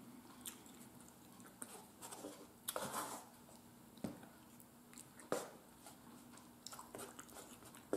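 Faint close-up chewing and eating sounds from a person eating a meal, with a handful of short soft clicks and smacks scattered through.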